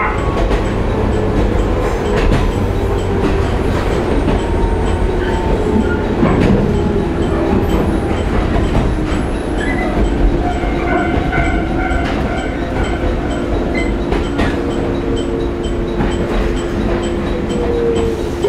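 Onboard running sound of a JNR 115-series electric multiple unit (KuMoHa 115-501, MT54 traction motors), heard inside the passenger car: a steady rumble of wheels on rail with a continuous hum from the running gear.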